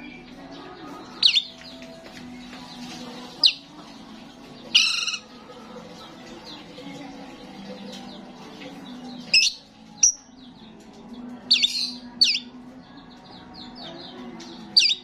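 Starling giving short, sharp, loud calls at irregular intervals, about eight in all, with a pause of a few seconds in the middle, over a steady low hum.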